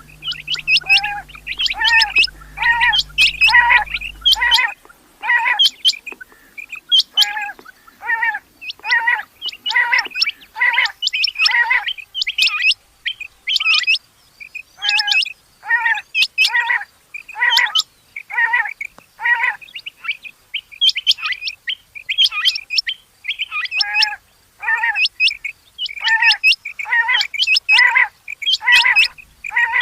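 Rain quail calling: short, sharp call notes repeated steadily, about one or two a second, without a break.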